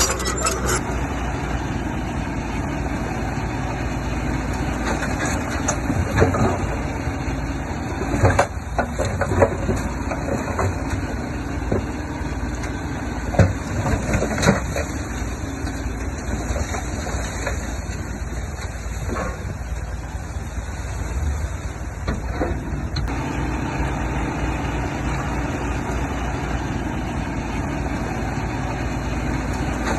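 Heavy diesel earthmoving machinery running steadily, with a few sharp metallic clanks partway through.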